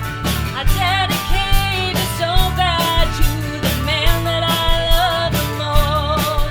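Americana country band playing: drums keep a steady beat under bass and acoustic guitar, with a wavering melody line on top from the fiddle, pedal steel and voice.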